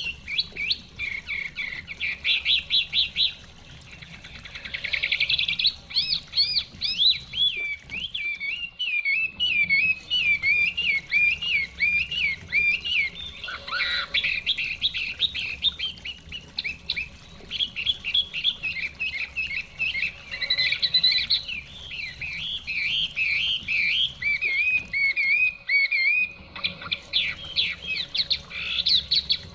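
A hwamei (họa mi) singing a long run of loud, fast, varied whistled phrases, pausing briefly about eight and twenty-six seconds in.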